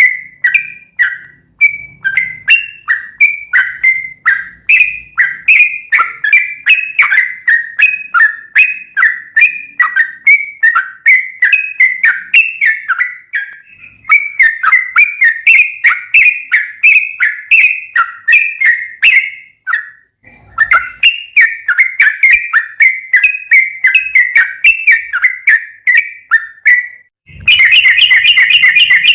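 Yellow-vented bulbul (trucukan) calling actively: a fast run of short, bubbly chirps, several a second, broken by two brief pauses, then a louder dense chatter near the end.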